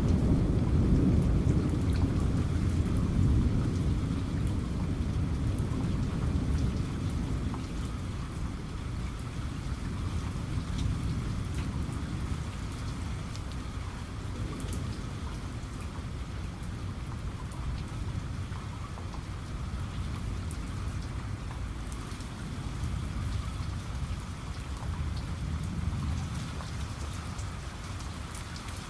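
Steady rain falling, with scattered individual drop ticks, and a low thunder rumble that dies away over the first several seconds.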